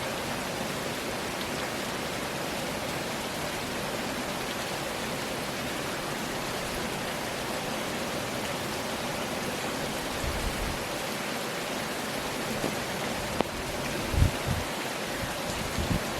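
Steady heavy rain, an even hiss. A few short low thumps come in the last few seconds.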